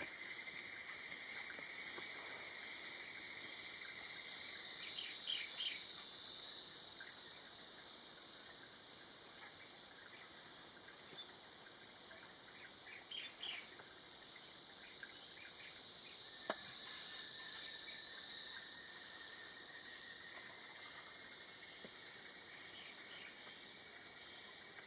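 A steady, high-pitched insect chorus that swells and fades twice, with a few short bird chirps now and then.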